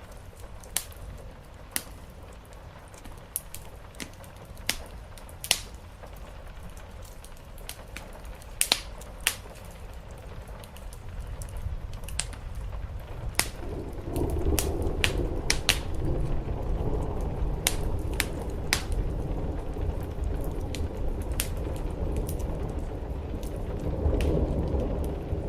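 Fireplace crackling with scattered sharp pops over a soft rain hiss on a roof. A low rumble builds up about halfway through and stays strong after that.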